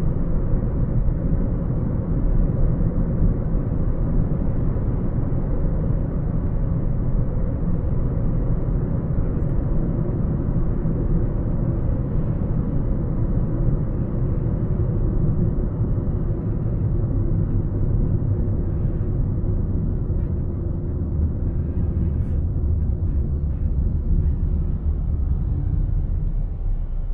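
A car driving on a city road: a steady low rumble of engine and tyre noise, easing off right at the end.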